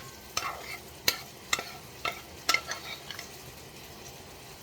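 A metal spoon clicking and scraping against a pan about seven times in quick succession as food is dished out, over a faint steady hiss.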